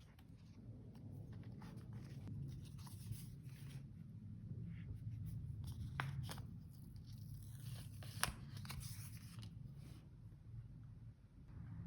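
Paper and sticker handling: soft rustling and peeling, with two sharp snips or clicks about six and eight seconds in, over a steady low hum.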